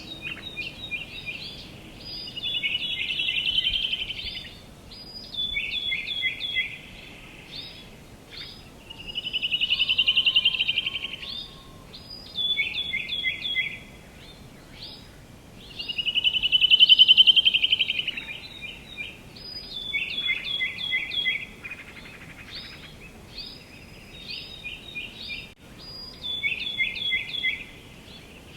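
Songbirds singing: runs of short, quick, down-slurred notes alternate with louder swelling trills that come roughly every seven seconds. A faint steady outdoor background lies beneath.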